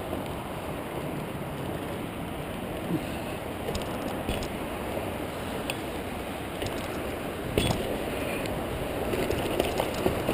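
Bicycle riding over a dirt trail: a steady rushing noise of tyres and air, with scattered clicks and knocks from the bike rattling, the sharpest about seven and a half seconds in.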